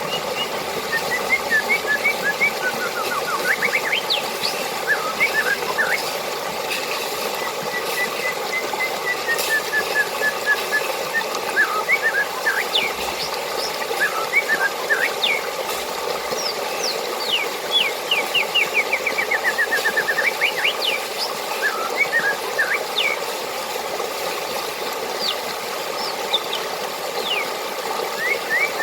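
Steady rush of flowing water with small birds chirping and trilling over it. The calls come throughout, including a long run of rapid notes falling slightly in pitch about nine to eleven seconds in and another around seventeen to twenty seconds.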